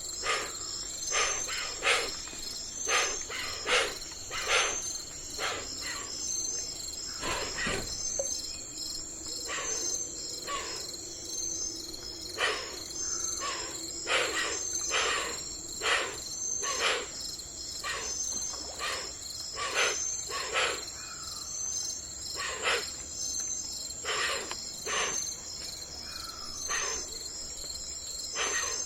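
Crickets chirping in a steady, high, rapidly pulsing chorus, with irregular short clicking sounds about one or two a second.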